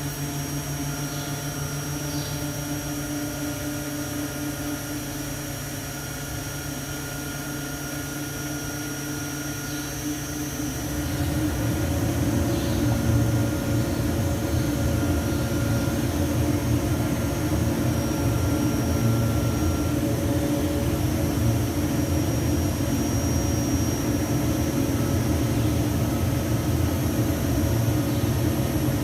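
A steady mechanical drone with a high whine, growing louder and rougher about eleven seconds in.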